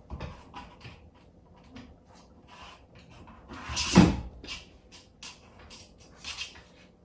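A run of light clicks and knocks, like something rattling or being bumped, with one louder knock about four seconds in.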